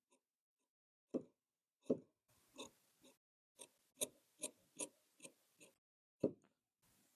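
Tailor's work at a cutting table: a few sharp knocks, and in between a run of about eight short scraping strokes, roughly two a second.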